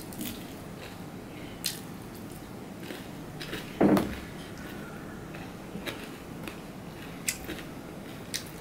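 Mouth sounds of a man eating rice and fried vegetables by hand: short wet clicks and smacks while chewing, and bites of cucumber near the end. One louder thump comes about four seconds in, as his hand reaches into the steel plate of cucumber slices.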